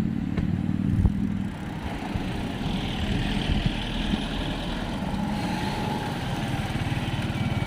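Motor vehicle engine running steadily, with a low rumble of road traffic around it.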